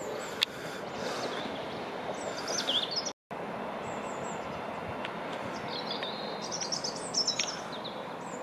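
Small birds chirping over the steady rumble of trains on the line, a Class 458 electric unit running away and then a Class 165 diesel unit approaching. The sound drops out for an instant about three seconds in.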